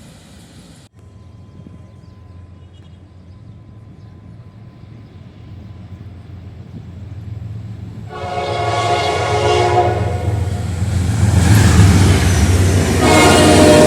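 General Electric diesel locomotive approaching, its engine rumble growing steadily louder. Its horn sounds about eight seconds in for a couple of seconds, then again near the end.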